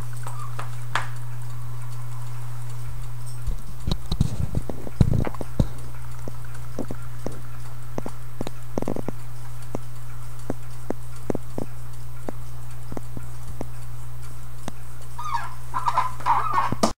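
Clock ticking about twice a second, with a few low knocks of handling a few seconds in, over a steady low hum.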